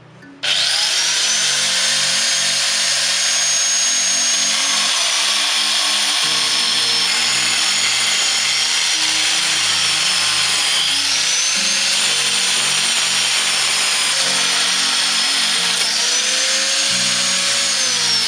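Ossel GT091 angle grinder with a turbo diamond ceramic blade cutting through a ceramic tile: a loud, gritty grinding with a high motor whine that sags and recovers as the blade bites. It starts abruptly about half a second in.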